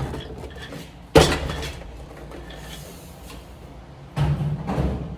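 Metal objects knocking and clinking while being handled: a sharp knock about a second in and a short clatter near the end.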